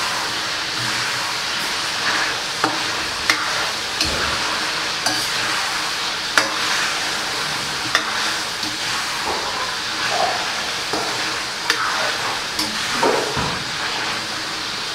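Chicken skin and fat sizzling steadily in a wok as the water boils off and they begin to fry in their own rendered fat. A metal ladle stirring through them gives occasional sharp clicks and scrapes against the wok.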